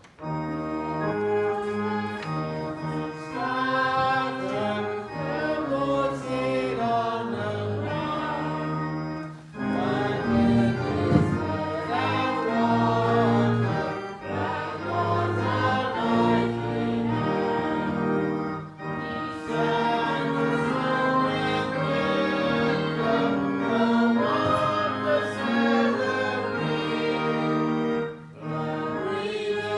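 Congregation singing a hymn together, with accompanying music, in phrases of about nine seconds separated by brief pauses.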